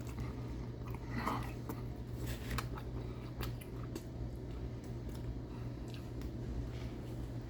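A man biting into and chewing a sandwich on whole wheat bread, with scattered soft crunches and mouth clicks. A steady low hum runs underneath.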